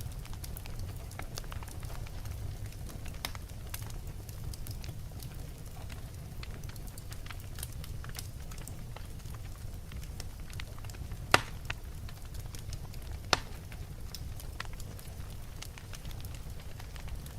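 Wood fire burning in a fireplace: a steady low rumble with scattered crackles, and two sharper pops a couple of seconds apart near the middle.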